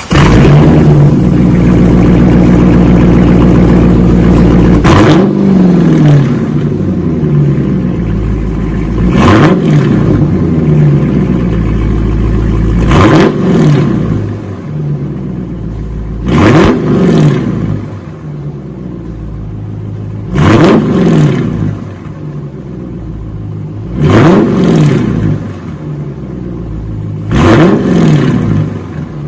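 Dodge Challenger's 5.7 Hemi V8 with its mufflers deleted (factory catalytic converters and X-pipe kept), running loud right from the start, then revved in seven short blips about every three and a half to four seconds, settling back to a rumbling idle between them.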